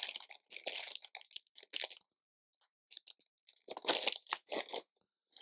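Hands rummaging through loose LEGO pieces and plastic parts bags, a rattling, crinkling rustle in two spells with a short pause between.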